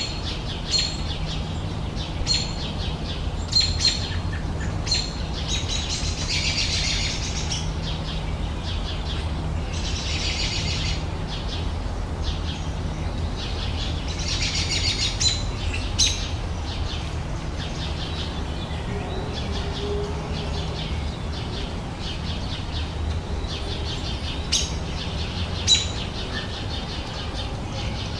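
Wild birds singing and chirping: scattered short sharp chirps, with longer trilling song phrases about six, ten and fifteen seconds in. A steady low rumble runs underneath.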